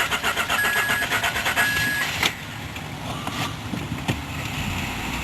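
A 2007 Honda Accord's engine being cold-started in freezing weather: the starter cranks rapidly for about two seconds while a warning chime beeps repeatedly. The engine then catches and settles into a steadier, quieter run.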